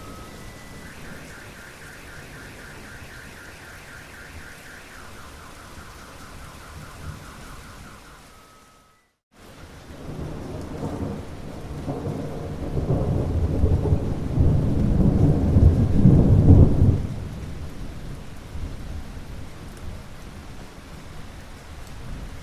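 Steady rain, with a faint pulsing tone over it, that fades out into a moment of silence about nine seconds in. Then rain with a long roll of thunder that swells to a loud peak and dies back down, leaving the rain falling.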